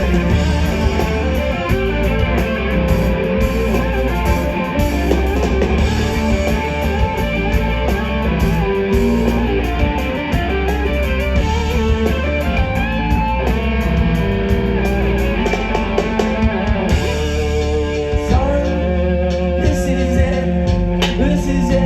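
Live rock band playing an instrumental passage, led by electric guitars over bass and drums, recorded from the crowd.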